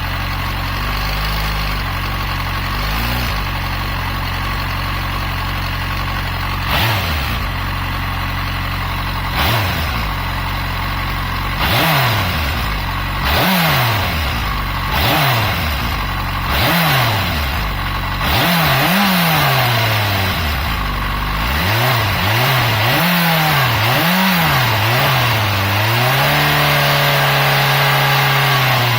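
Yamaha FZ6 inline-four motorcycle engine idling, then revved in a series of short throttle blips that come quicker later on, then held at raised revs for a few seconds before dropping back near the end. The owner hears a knock in this engine that he cannot identify and says the chain is in perfect condition.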